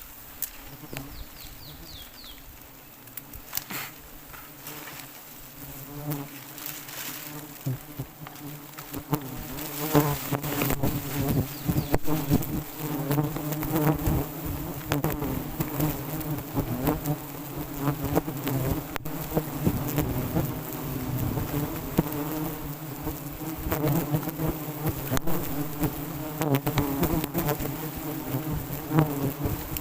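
A swarm of wild honeybees buzzing around their nest, a dense droning hum that builds up over the first ten seconds and stays loud.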